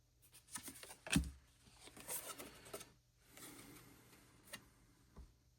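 Paper cards and album inclusions being handled: soft rustling with a few light taps and clicks, the sharpest about a second in.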